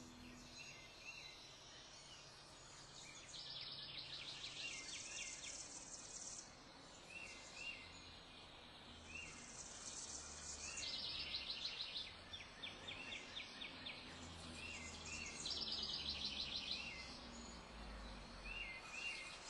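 Faint birdsong: high, rapid trills about a second long recur every few seconds, with short, quick chirps in between.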